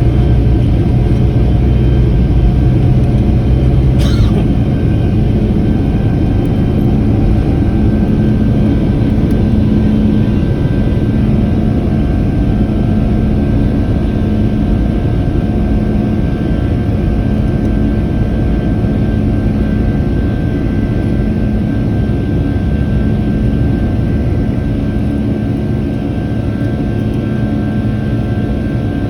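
Boeing 757 jet engines at takeoff power, heard from inside the passenger cabin. A heavy low rumble in the first few seconds gives way to a steady engine hum with several held tones, easing slowly. There is one short sharp sound about four seconds in.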